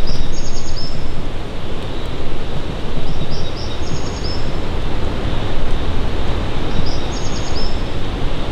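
A bird sings the same short phrase of quick high notes three times, about every three and a half seconds, over a loud, steady rushing noise.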